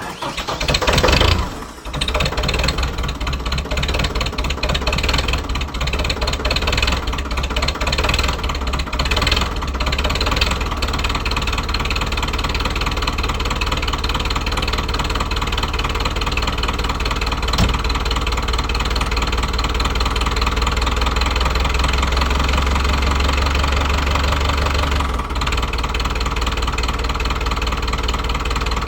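Lovol 504 tractor's diesel engine cold-starting in deep frost after three weeks unused and with only a short glow-plug preheat: a brief crank, the engine catching within about two seconds, then running unevenly at first before settling into a steady idle.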